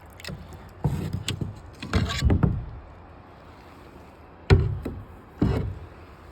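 Water splashing and sloshing in four sudden bursts as a hand reaches into the creek to pull up an old glass flask.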